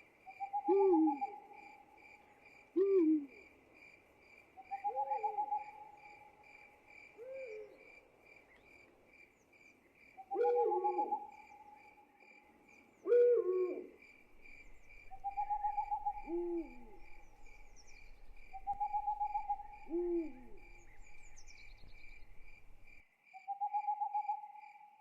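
Night chorus: an owl gives short, falling hoots every couple of seconds over a cricket's steady, rapid chirping, while another animal repeats a trilled call of about a second. A low background rumble cuts out abruptly near the end.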